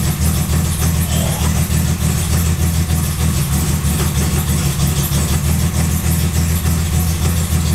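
BMW E3 2800's 2.8-litre straight-six engine idling steadily while still cold.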